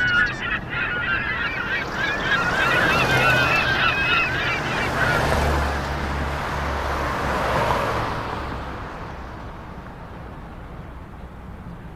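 A flock of birds calling, with many short overlapping honking calls for the first five seconds or so. The calls then give way to a rushing noise that swells and fades into a quieter steady background.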